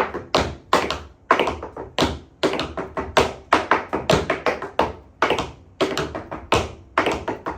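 Tap shoes striking a wooden tap board in rhythmic groups of quick metallic taps, each with a short ring off the board.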